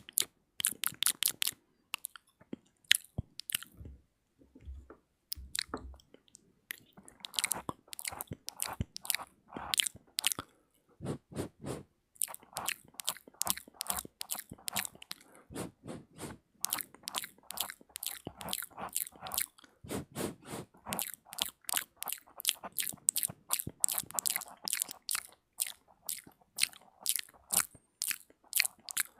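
ASMR mouth sounds close to the microphone: rapid wet clicks, pops and smacking of the lips and tongue, with a short break about four seconds in.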